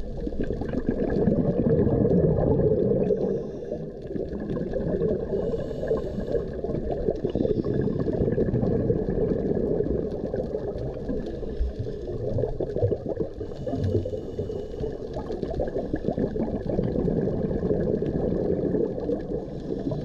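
Underwater sound picked up by a camera on a night dive: a steady muffled rush of water with gurgling, and a faint steady high whine running through it.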